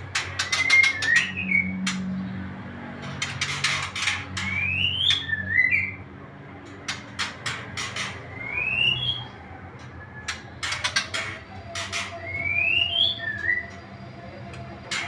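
Caged birds calling: bursts of sharp, rapid chirps every couple of seconds, between them a short whistle that rises in pitch, repeated four or five times, over a low steady hum.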